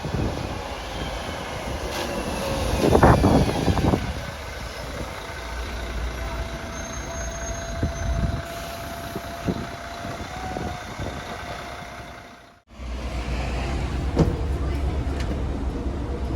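Single-deck diesel bus pulling in, its engine running with a steady turbo whistle, and a loud rush of noise about three seconds in. Near the end the sound cuts out for a moment, then the engine runs on steadily.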